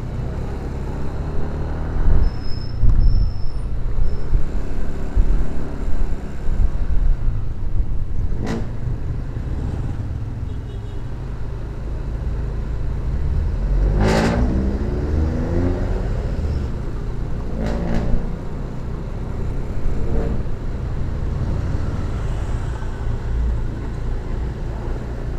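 Motorcycle riding in traffic, recorded on a sports action camera: a steady low rumble of wind on the microphone and road noise. About halfway through, another vehicle passes loudly and close by, and there are two sharp knocks, one about a third of the way in and one about two thirds in.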